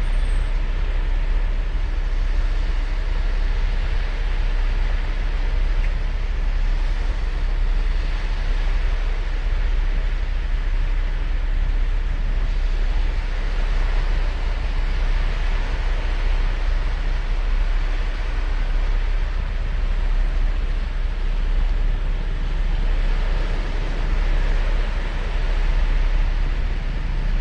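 Ocean surf breaking and washing up the beach: a steady rush of waves that swells louder twice, with a deep low rumble underneath.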